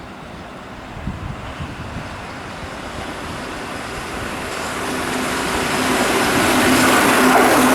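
Keihan electric train approaching at speed, its noise swelling steadily over the second half and joined by a steady hum about five seconds in. Wind on the microphone at the start.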